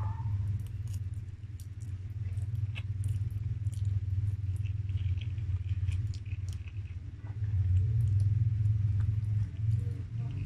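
Close-up chewing of a mouthful of spaghetti, with many small wet mouth clicks, over a steady low hum that grows louder about two-thirds of the way through.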